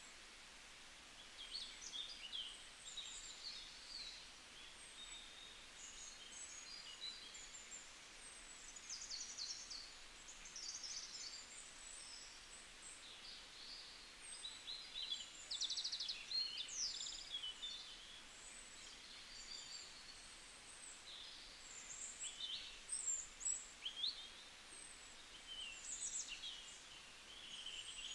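Small birds chirping and singing, many short calls and quick trills overlapping, over a faint steady hiss.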